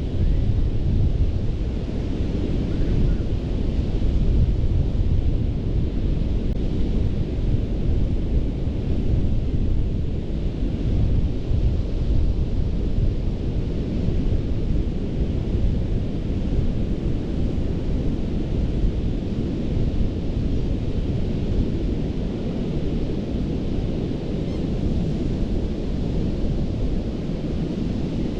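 Ocean surf washing onto a sandy beach, a steady rush dominated by a deep low rumble, with wind buffeting the microphone.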